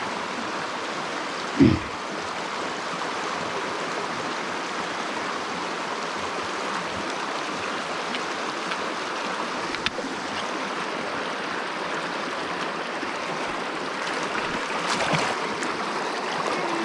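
Mountain stream water running steadily over rocks, with one brief thump a little under two seconds in.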